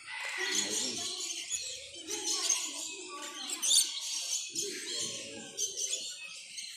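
A crowd of birds chirping and calling over one another, with a sharper, louder call a little past halfway, against background voices.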